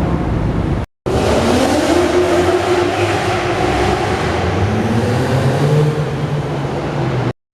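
Car engine revving and pulling away, its pitch rising in two climbs. The sound breaks off briefly about a second in and cuts off abruptly near the end.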